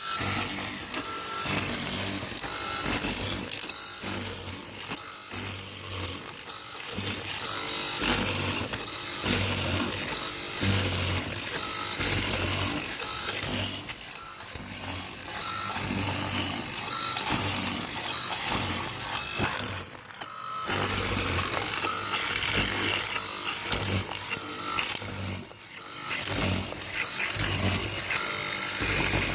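Electric router motor of a door-lock mortising (plotter) machine running and cutting into a wooden door, the level swelling and dipping as it works.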